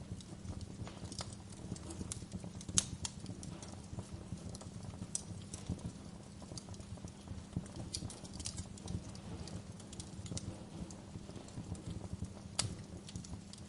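Wood fire crackling in a fireplace: irregular sharp pops and snaps over a steady low rumble. The loudest pops come about three seconds in and near the end.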